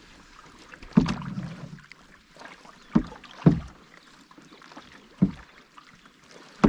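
Paddle strokes from a canoe on calm water: four sharp knocks and splashes, the first about a second in and followed by a swish of water, then two close together near the middle and one more later.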